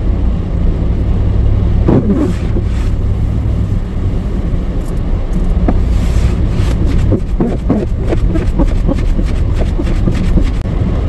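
GMC Yukon driving through deep snow, heard from inside the cab: a steady low engine and road drone, with scattered light clicks and knocks.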